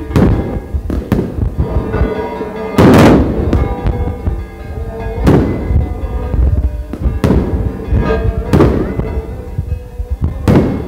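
Aerial fireworks bursting overhead: a string of about nine booms roughly a second apart, each with a short echo, the loudest about three seconds in.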